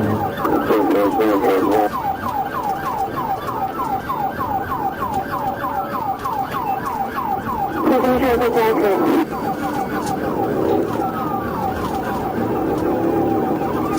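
Police car siren on yelp, sweeping up and down fast, about five times a second, then switching to a slower wail in the last few seconds, over vehicle noise.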